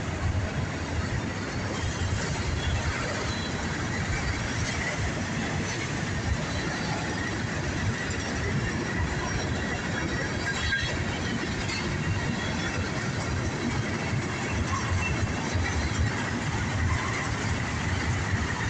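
Norfolk Southern freight train rolling past: a steady rumble of steel wheels on the rails, with a faint high wheel squeal coming and going.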